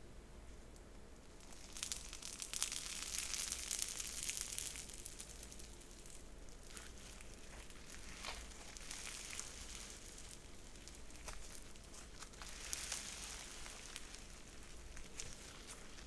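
Hands squishing and stretching a textured slime, Slime Fantasies' Avocado Toast & Egg, which gives crackling, crinkling sounds with small pops. The crackle comes in waves: strongest from about two to five seconds in, and again twice later.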